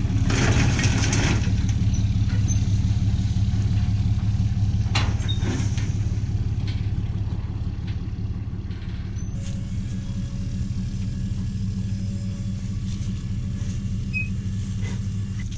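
A vehicle engine idling steadily, with a brief rush of noise in the first second and a few light clicks.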